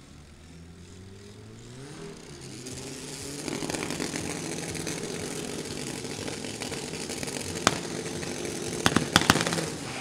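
Two turbocharged drag cars on the start line revving up about two seconds in, then held at steady high revs. A sharp pop comes near the end, and a quick cluster of pops follows about a second later.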